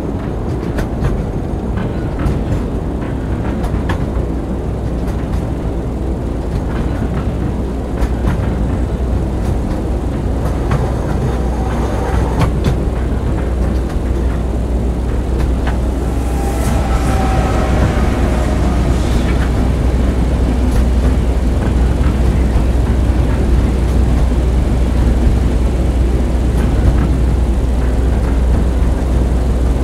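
Steady low rumble and clatter of a train in motion, with scattered clicks and a few faint whining tones about halfway through.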